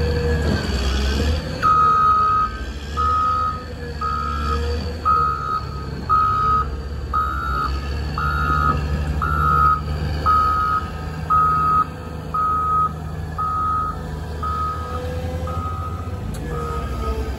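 Backup alarm of a Caterpillar 120M motor grader beeping about once a second, a single steady tone repeated some fifteen times, the sign of the machine reversing. Its diesel engine runs underneath as a steady low rumble.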